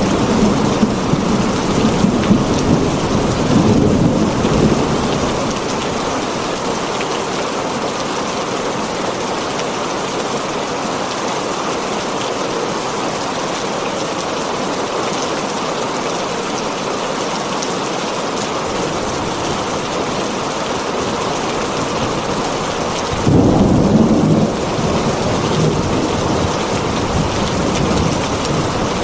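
Heavy rain drumming steadily on a tin roof. Low rumbles of thunder come in the first few seconds, and a sudden louder rumble breaks in about 23 seconds in, then cuts off a second later.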